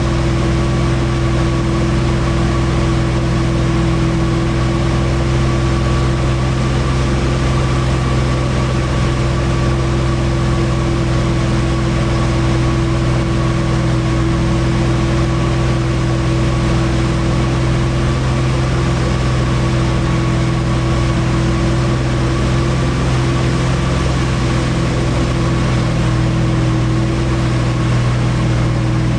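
Motorboat engine running steadily at an even speed, a constant low hum with a fixed higher whine over it.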